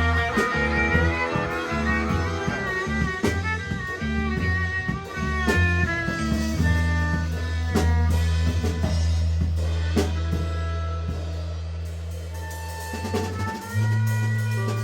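Live band playing an instrumental passage: drum kit hits and guitar lines over long held low bass notes. The drumming thins out in the second half, and the bass moves to a new note near the end.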